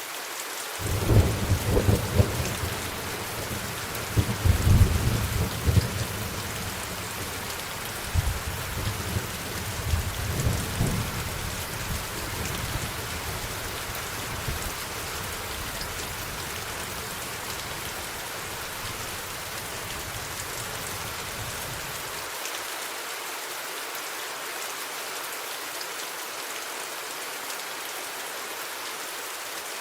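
Steady rain hissing, with a long roll of thunder that breaks in about a second in, rumbles in several loud surges over the next ten seconds, then fades away about two-thirds of the way through.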